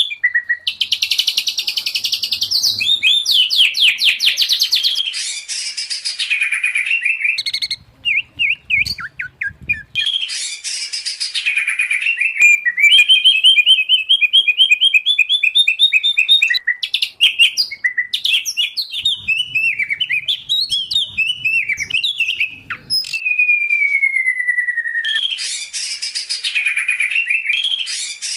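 Songbirds singing loud, varied song of rapid trills, chattering phrases and clear whistles, with a rising run of short notes in the middle and a long falling whistle later on; a mixed song recording of white-rumped shama, oriental magpie-robin and greater green leafbird.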